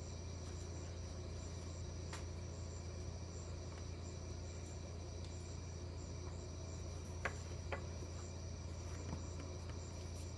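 Crickets chirping steadily in a high, even pulse over a low steady hum. Two light clicks come about seven seconds in.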